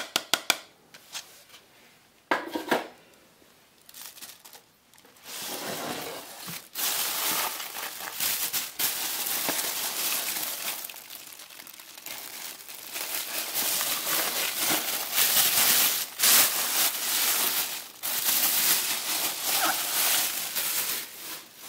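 Plastic packaging crinkling and rustling as it is handled and pulled off, with a few light knocks at first.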